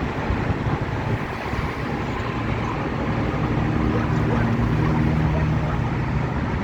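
Boeing 757-200's twin jet engines at takeoff thrust: a steady, wide roar that grows slightly louder, with low humming tones coming in about halfway through.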